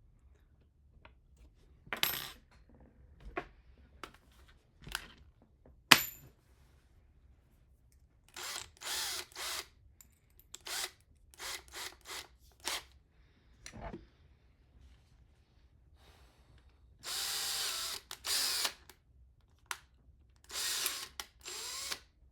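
Power driver run in short whirring bursts, driving screws, with a few knocks and one sharp metallic click of parts being handled in the first few seconds.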